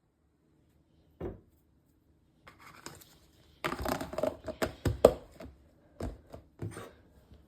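Kitchenware being handled by hand: a single knock about a second in, then a quick run of knocks, clatters and scrapes, densest in the middle, and two more knocks near the end.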